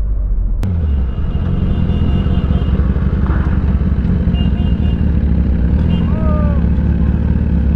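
Motorcycle engine running on the move, with a heavy low rumble of wind on the microphone. A brief faint voice comes in about six seconds in.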